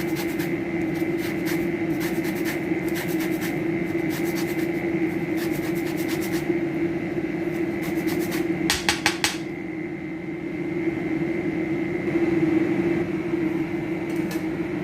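Orange peel rubbed against a hand grater for zest: rapid scraping strokes for about six seconds, then a brief burst again near nine seconds, over a steady background hum.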